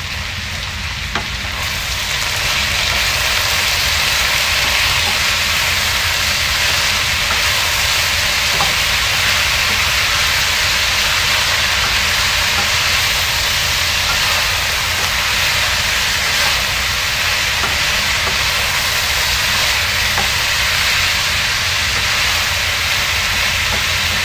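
String beans and squash sizzling steadily in a hot frying pan while being stirred with a wooden spatula; the sizzle gets louder about two seconds in.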